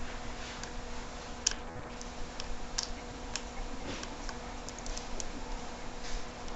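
Small, irregular clicks and taps of tools and small parts handled while taking apart a Sony Ericsson Xperia X10 Mini smartphone, the sharpest about a second and a half in, over a faint steady hum.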